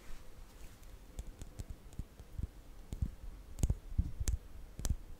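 Irregular soft clicks and taps made close to the microphone for ASMR, a few of them louder a little past halfway.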